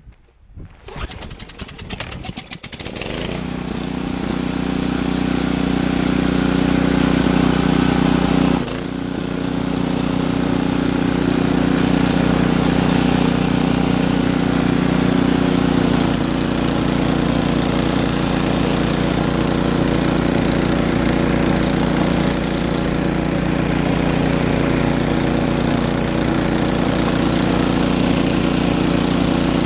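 Snowblower's small engine starting up, sputtering unevenly for the first few seconds before settling into a steady run. About eight and a half seconds in the sound dips sharply and changes, then it runs on steadily.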